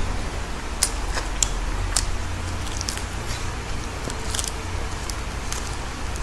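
Close-up mouth sounds of crunching and chewing crisp lettuce leaves: irregular sharp crackles, thickest about a second in and again around four seconds, over a steady low hum.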